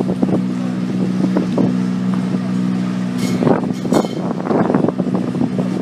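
Car engine running at a steady idle, with several short sharp cracks or knocks over it; the two sharpest come about three and four seconds in.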